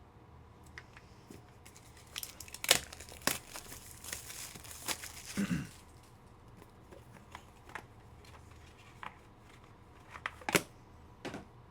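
A trading-card pack wrapper being torn open and crinkled, with a dense crackling stretch in the middle and several sharp clicks and snaps of cards being handled.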